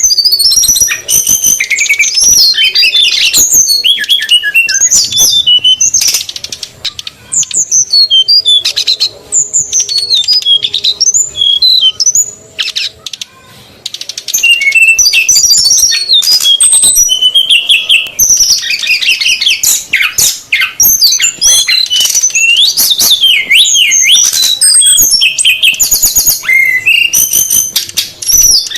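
Bird-lure recording of male and female brown-chested jungle flycatchers (sikatan rimba dada coklat) calling noisily together: rapid high chirps and whistled notes, thinning out for several seconds in the middle before picking up again.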